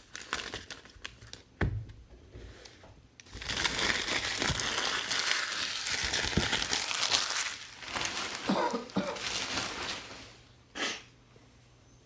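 Plastic trading card pack wrappers crinkling as they are handled and torn open. A few light clicks come first, then about seven seconds of steady crinkling, and one short crinkle near the end.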